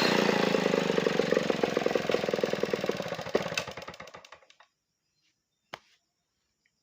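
Large chainsaw engine winding down after the throttle is released: the firing beats slow and fade until the engine stops about four and a half seconds in. A single sharp click follows near the end.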